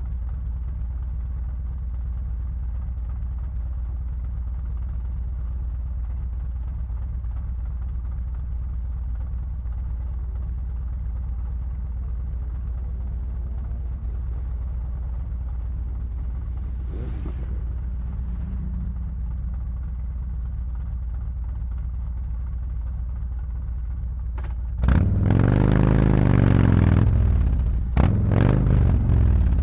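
Harley-Davidson Road Glide V-twin through SuperTrapp 4-inch slip-on mufflers, idling with a steady low rumble. About 25 seconds in it gets much louder as the bike pulls away, the exhaust note rising and falling in pitch as the revs climb and drop.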